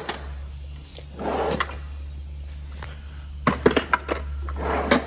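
Metal hand tools handled against the truck's hub, scraping and clinking, with a cluster of sharp clicks about three and a half seconds in, over a steady low hum.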